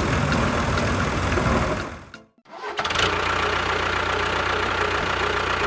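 A motor running steadily. It cuts out abruptly about two seconds in and resumes half a second later, running evenly with a low hum.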